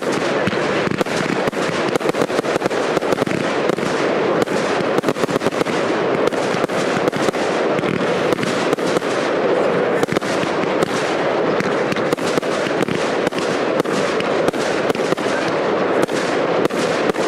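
Fireworks display firing rapid volleys of shots, many cracks and bangs a second in a dense, unbroken barrage.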